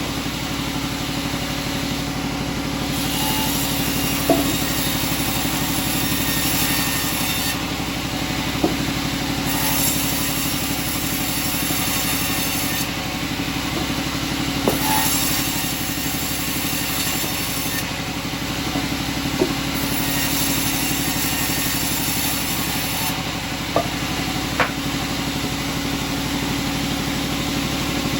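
Sawmill machinery running with a steady hum. A brighter high hiss comes and goes every few seconds, and sharp knocks sound now and then.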